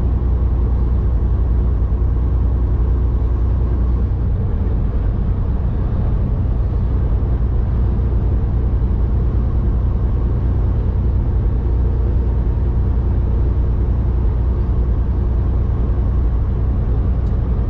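Semi-truck's diesel engine running steadily, heard from inside the cab as an even low hum.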